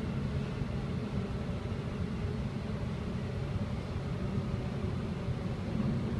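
Queensland Rail SMU electric multiple-unit train running between stations, heard from inside the passenger car: a steady low rumble with a faint steady hum above it.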